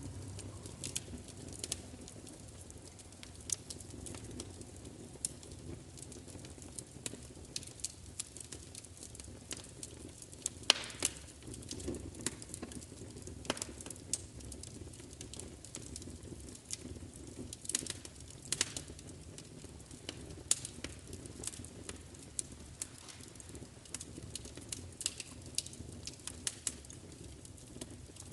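Wood fire crackling: irregular pops and snaps over a steady low rumble of flames, with a louder snap about eleven seconds in.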